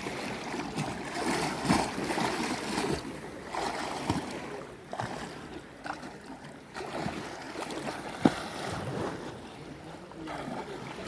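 Lake water sloshing and splashing in uneven surges, with a few short sharp knocks, the loudest about eight seconds in.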